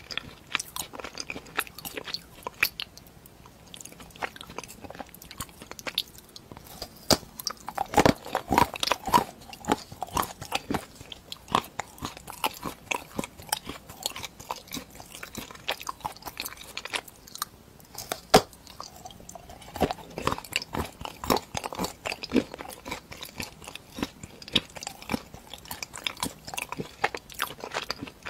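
Close-up biting, crunching and chewing of a hard edible treat shaped like a rusty gear: a steady run of sharp snaps and crunches, loudest about eight seconds in and again around eighteen seconds.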